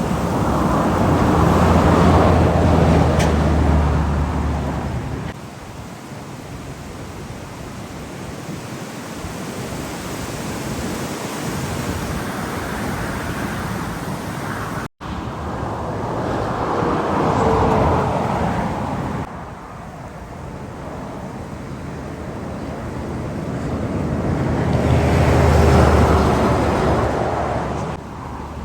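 Heavy trucks passing one after another on a highway: each diesel engine's low drone and the tyre noise swell and fade as it goes by, three passes in all. Wind buffets the microphone. The sound cuts out for an instant about halfway through.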